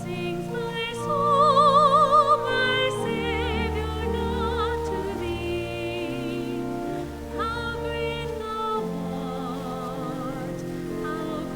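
Classical-style solo singing with a wide vibrato on long held notes, over a sustained, steady accompaniment of held chords; the voice swells loudest about two seconds in.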